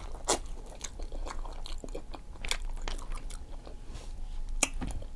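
Close-miked eating: a person chewing and biting, with irregular wet mouth clicks and smacks a few times a second.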